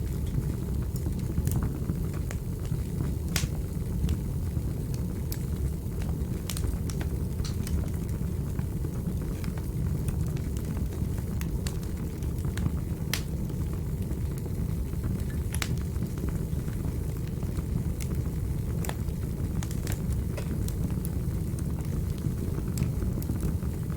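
Fireplace fire burning: a steady low rumble of flame with irregular sharp crackles and pops from the burning wood.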